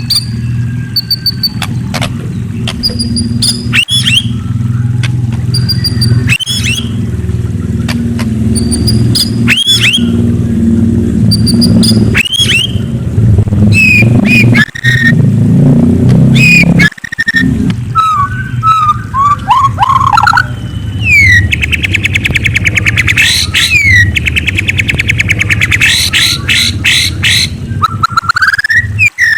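White-rumped shama (murai) singing: repeated whistled phrases with rising and falling sweeps every few seconds, turning to fast rattling trills in the second half. A steady low rumble runs underneath.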